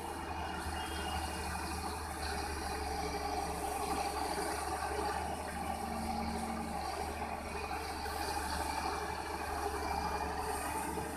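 Diesel engine of a construction machine running steadily, with some rattling.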